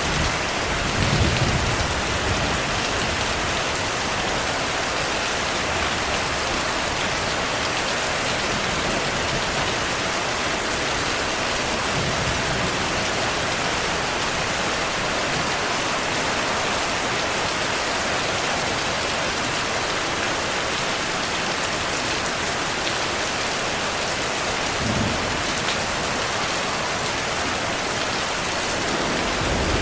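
Steady rainfall, an even hiss of rain on surfaces, with faint low thunder rumbles about a second in and again near the end.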